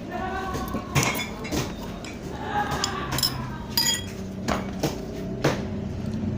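Spoon clinking and knocking against a soup bowl several times while eating.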